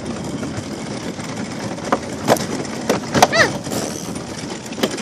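Small wheels of a pushed cart rolling over rough, bumpy ground: a steady rolling rumble broken by several sharp knocks and cracks, with a short squeal that rises and falls about three seconds in.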